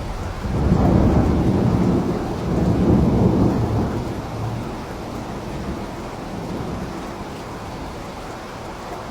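Steady rain with a roll of thunder that swells about half a second in, rumbles for a few seconds and dies away.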